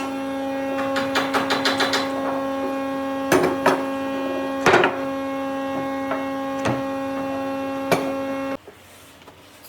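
An electric power tool's motor running at a steady speed with an even hum, while a quick run of taps and then several separate knocks sound over it. The motor switches off abruptly near the end.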